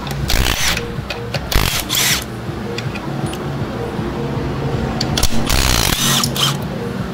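Three short bursts of a power tool, the longest near the end, over steady background music.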